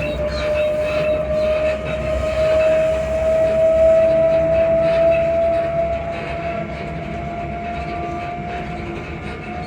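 Inside a Class 334 electric multiple unit on the move: a strong whine rising slowly and steadily in pitch as the train gains speed, over running rumble with faint scattered clicks and squeaks from the carriage.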